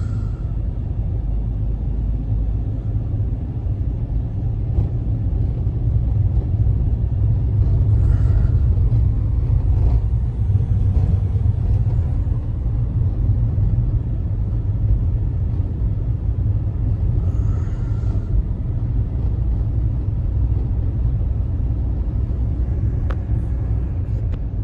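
Snowstorm wind rumbling steadily on the microphone, a deep continuous roar, with a few faint brief higher sounds at the start, about a third of the way in and about two-thirds of the way in.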